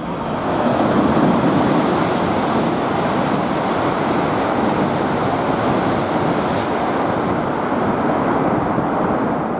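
Tohoku Shinkansen bullet train passing through the station at high speed: a loud, steady rushing roar of wheels and air that builds within about a second, holds, and eases off near the end.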